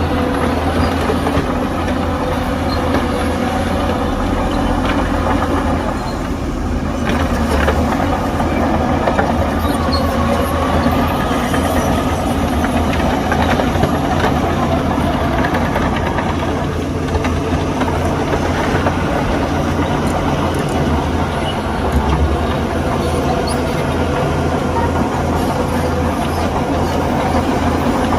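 Diesel engines of heavy earthmoving machinery, a bulldozer and dump truck, running steadily at work: a continuous deep engine drone that never drops out.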